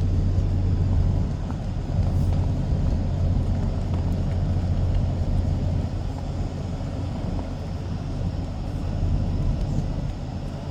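A motor vehicle's engine running with a steady, low rumble.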